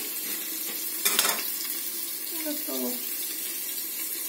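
Batter-coated chicken chops frying in oil under a glass lid, a steady sizzle. About a second in, a metal spatula clatters briefly as it is set down on an enamel tray.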